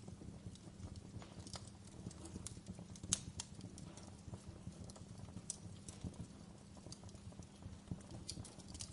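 Wood fire burning in a fireplace: irregular sharp crackles and pops over a low steady rumble, with one louder pop about three seconds in.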